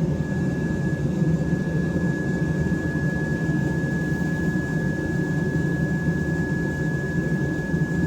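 Steady roar of a running forge with a constant high whine over it.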